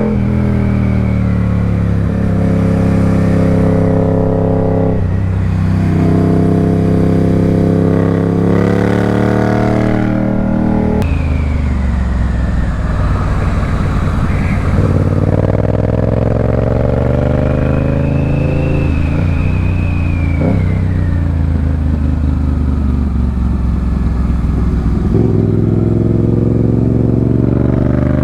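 Motorcycle engine running under way, its note rising and falling with road speed and dropping or jumping abruptly several times.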